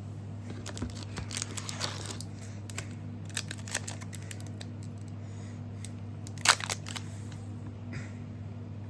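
Trading cards and a booster pack wrapper being handled: scattered light clicks and crinkly rustles, with a louder crinkle about six and a half seconds in, over a steady low hum.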